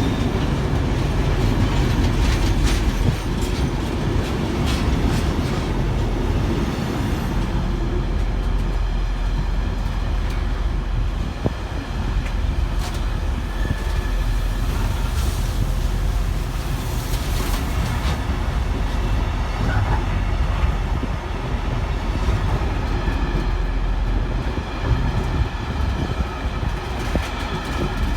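A train of engineers' wagons rolling past, with a steady rumble of wheels on the rails and occasional short clicks.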